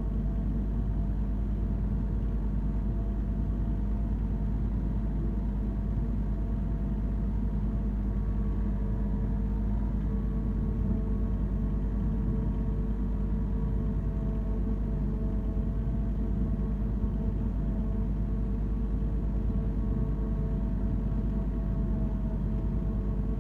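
Branson 3520R compact tractor running steadily while mowing, its engine holding an even speed with a constant low rumble.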